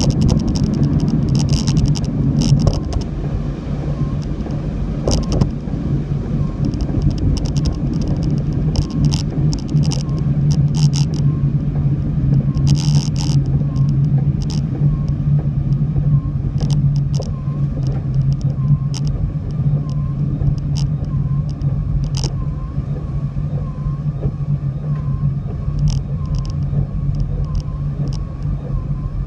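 Car driving: a steady low drone of engine and road noise, with short hissing bursts every second or two.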